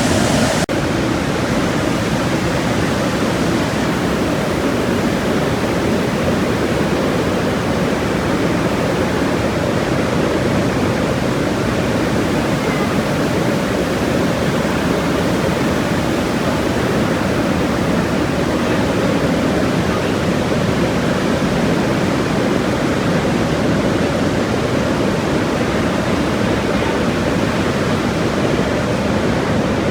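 Waterfall rushing steadily, an even, loud roar of falling water.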